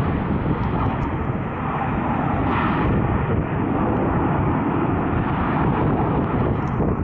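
Jet airliner's engines giving a steady, loud rush of noise as it passes; the spotter takes the plane for an Airbus A320.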